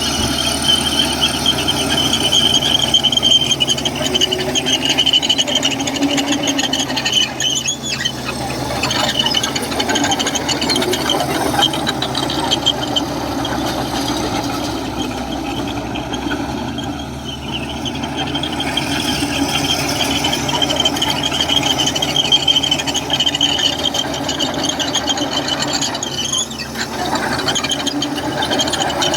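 Komatsu crawler bulldozer working, its diesel engine running steadily under a high, continuous squeal from the steel tracks and undercarriage. The squeal eases off about halfway through and then comes back.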